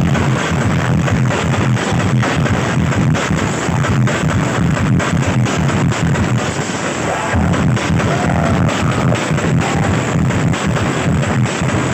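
Loud music with heavy bass played through large outdoor sound systems in a sound-system battle, a dense, unbroken wall of sound.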